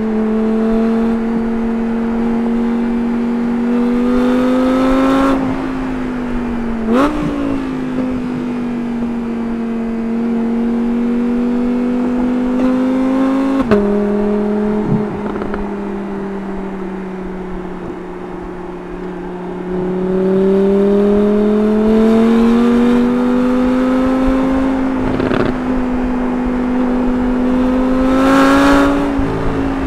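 Audi R8's 5.2-litre V10 on its stock exhaust, running at moderate revs under light throttle, its steady note slowly rising and falling. About halfway through the pitch drops sharply at an upshift.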